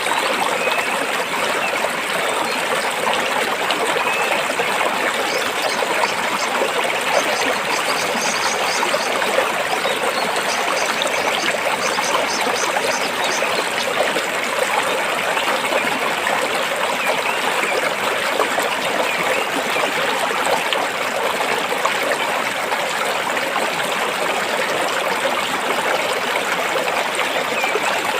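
Stream water flowing over and between rocks: a steady, even rushing and trickling. A faint, high, rapid trill is heard for several seconds about a third of the way through.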